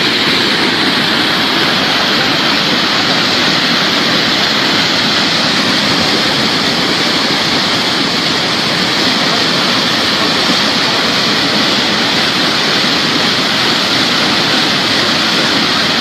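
Floodwater of a swollen river rushing past in a steady, loud, unbroken torrent.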